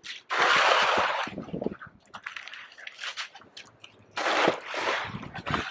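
Snow being shoveled: a shovel scraping and crunching through snow along the pavement in two strokes of about a second each, one near the start and one about four seconds in, with small clicks and knocks between.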